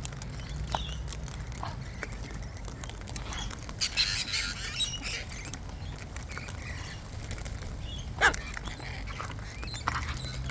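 Wild parrots calling and chirping now and then, with a cluster of harsh calls about four seconds in and a single sharp, loud call about eight seconds in.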